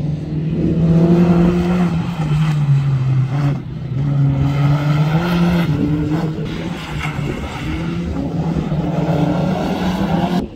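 Rally car engine running hard under load, its pitch falling and rising several times as it works through the revs.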